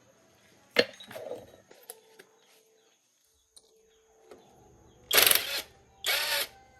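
A handheld power tool run in two short bursts of about half a second each near the end, after a single sharp knock about a second in.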